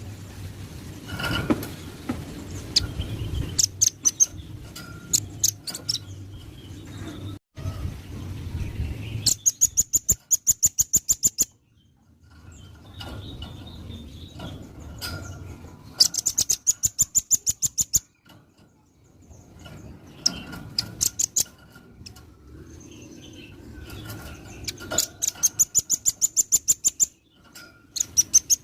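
Velvet-fronted nuthatch calling: fast runs of sharp, high chips, about ten a second, each run lasting about two seconds. Three runs come in, with scattered single chirps between them, and a fourth starts right at the end.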